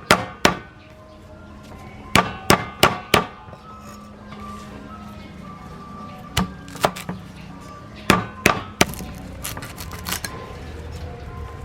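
Knife chopping food on a cutting board: sharp knocks in short bursts of two to four strokes, with pauses between.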